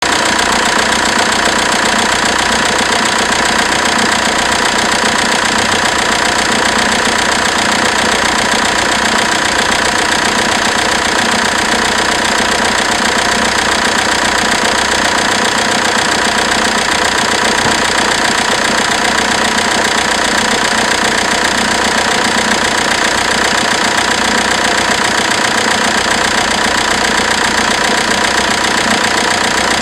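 Renault 2.2 dCi G9T four-cylinder turbodiesel engine idling steadily, its sound unchanging throughout.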